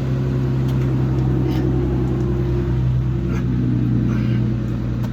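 Steady low mechanical hum with several pitched tones held level, of the kind an idling engine or running motor makes.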